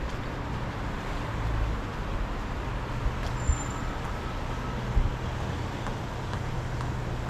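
City street traffic noise with a steady low engine hum, broken by two short knocks about halfway through.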